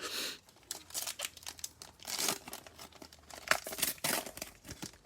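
Foil trading-card pack being torn open and its wrapper crinkled, a run of short crackling rustles.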